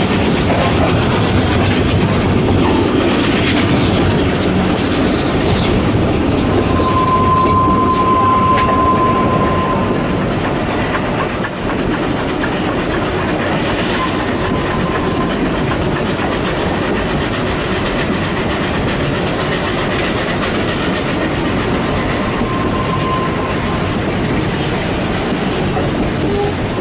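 Welsh Highland Railway narrow-gauge carriages running over the track: a steady rumble and clickety-clack of the wheels. A high wheel squeal sounds for about two seconds some seven seconds in, and comes back faintly twice later, as the wheels grind round the curve.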